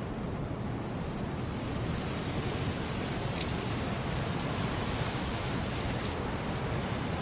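Wind blowing steadily with a low rumble, swelling into a stronger hiss about a second and a half in, with a few faint crackles from a wood fire.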